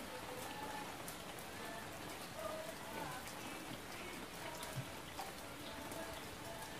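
Steady, even rain-like hiss, with a few faint short tones in the background and occasional light knocks.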